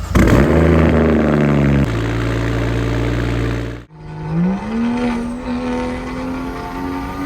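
Straight-piped, single-turbo BMW 335is N54 inline-six firing up: a loud flare that settles down to a steady idle. Near the middle the sound cuts off abruptly, then the engine comes back pulling steadily under way, its pitch rising slowly.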